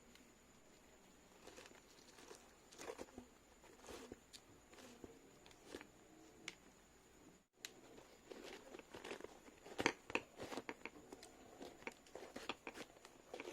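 Handling noises: irregular rustling, crinkling and small clicks and knocks, as of shoes and materials being picked up and worked by hand. They grow denser and louder in the second half.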